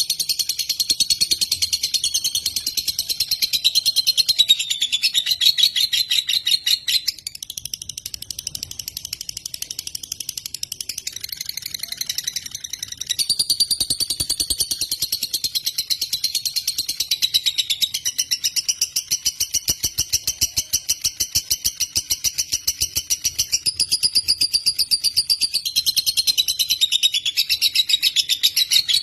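Lovebird singing in a long, fast, high-pitched chattering trill of rapid pulses. It drops quieter for several seconds partway through, then carries on at full strength.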